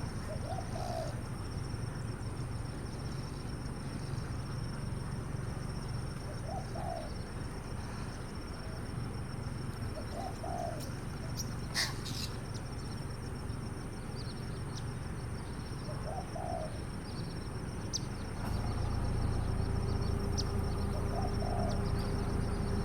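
A dove cooing: short low coos repeated about every five seconds, five times, over a steady low hum, with faint high chirps and one sharp click in the middle. The hum grows louder near the end.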